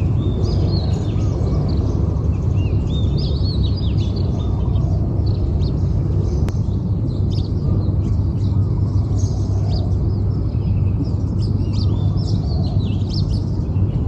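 Small birds chirping and twittering, with many quick high notes, some rising or falling, heard throughout over a steady low rumble.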